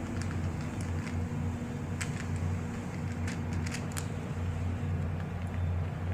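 Steady low mechanical hum, with scattered faint clicks and ticks, most of them about two to four seconds in.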